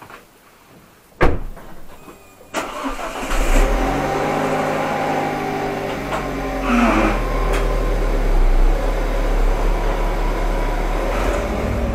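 A sharp thump about a second in, then an Alfa Romeo Giulietta's engine starting about two and a half seconds in and running steadily at idle.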